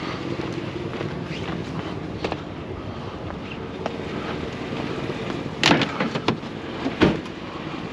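Steady running of an idling vehicle, with a quick cluster of knocks and clatters a little over halfway through, like things being shifted in a trash pile.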